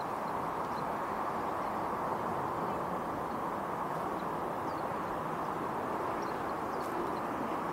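Steady background rumble of distant traffic, with faint, short, high chirps of small songbirds scattered through it every second or so.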